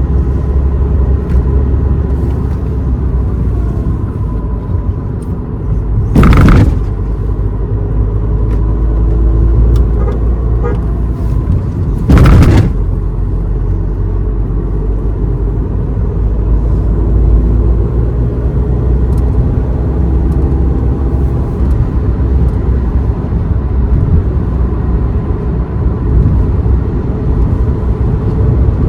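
A car driving on a road, its engine and tyre rumble running steadily with slow shifts in engine pitch. Two brief, loud bursts of noise cut through it about six seconds apart.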